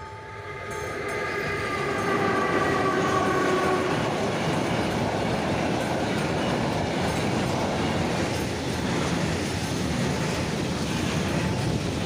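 A train sounds its horn as it nears the level crossing, a chord held for about four seconds and sliding slightly down in pitch. Meanwhile the steady rumble and wheel-on-rail noise of the passing train builds up and then stays loud.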